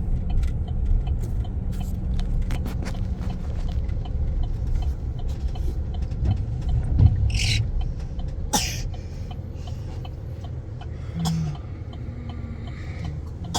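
Low road and engine rumble inside a pickup truck's cabin while it is being driven, with a few short clicks and knocks. The rumble eases about eight seconds in.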